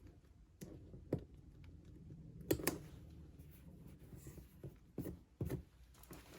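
Items being handled and set down during an unboxing: a few scattered sharp clicks and knocks over a faint low hum, the loudest a double knock about two and a half seconds in.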